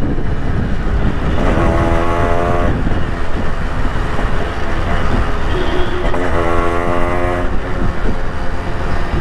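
A loud horn sounds twice, each blast about a second long, over steady riding noise of engine and wind.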